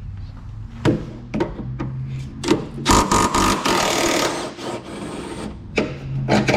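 Wrench work on the sway bar end link fasteners of a Mustang's rear suspension: sharp metal clicks and knocks, with a dense run of rapid clicking and rasping about three seconds in.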